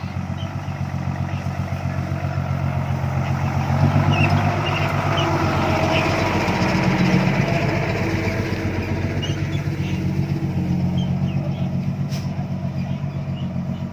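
Heavy diesel engine of a dump truck or excavator running steadily, swelling a little about four and seven seconds in.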